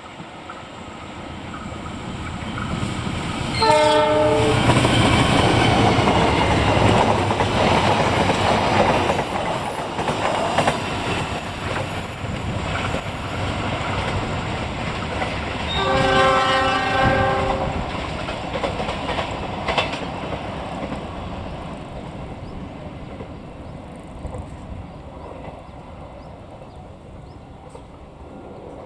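A train passing close by. Its horn sounds briefly about four seconds in, the noise of the running train is loudest for the next several seconds, and a second, longer horn blast comes about sixteen seconds in. The rumble then slowly fades as the train moves away.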